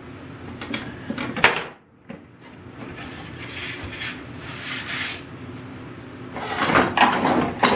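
Wooden drawers of a restored machinist's tool chest being slid and knocked: a few sharp knocks early, then a louder cluster of knocks and sliding near the end.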